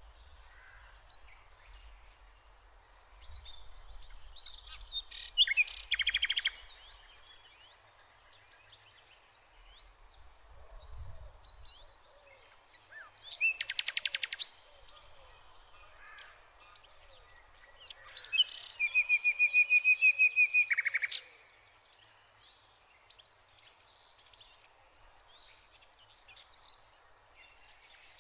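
Several birds calling and singing, with many soft chirps throughout. Three loud bouts of fast, rapidly repeated notes stand out, about five, thirteen and eighteen seconds in; the last is a steady trill of about three seconds.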